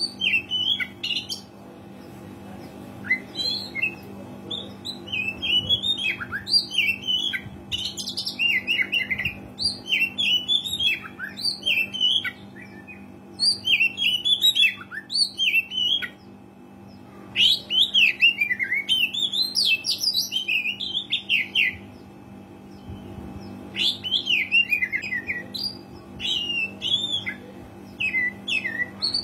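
Oriental magpie-robin (kacer) singing in full, a rapid varied string of whistled and chattering notes in bursts, with brief pauses between phrases.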